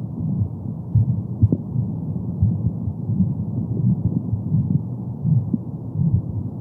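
Womb sound for soothing babies: a steady, muffled low whooshing with a pulsing heartbeat running through it, and no high sounds at all.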